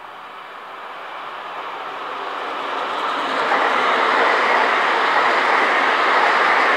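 Great Western Railway passenger train passing close by at speed, an even rushing rumble of wheels on rail. It grows louder over the first three seconds or so, then holds steady as the coaches go by.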